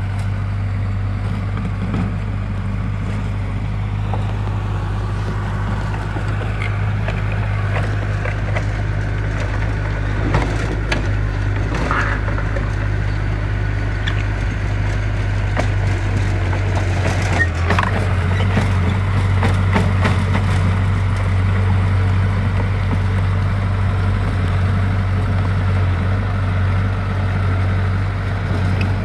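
Diesel engine of heavy earthmoving equipment running steadily under load, with scraping and clattering of dirt and stone mostly in the middle stretch.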